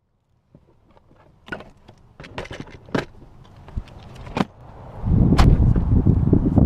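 Knocks and rustling handling noise growing louder, then from about five seconds in a loud, gusty wind buffeting on the microphone. No propeller whine stands out.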